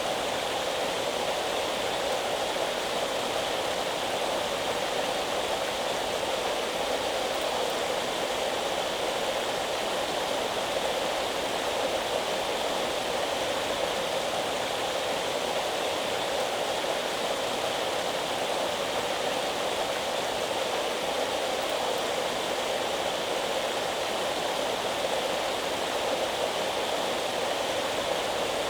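Steady, unbroken rushing of water, even and without pauses.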